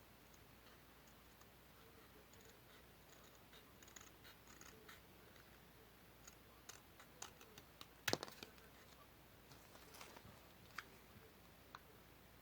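Faint, scattered clicks and snips of paper being cut and handled for a paper model, with one sharper click about eight seconds in, against near silence.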